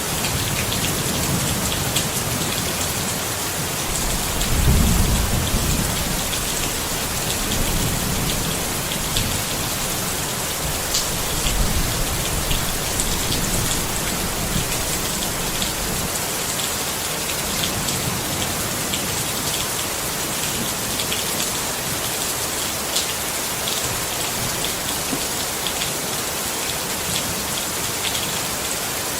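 Steady rain falling on a tent, with sharp individual drops ticking over the hiss. A low thunder rumble swells and fades through the first half, loudest about five seconds in, and dies away after that.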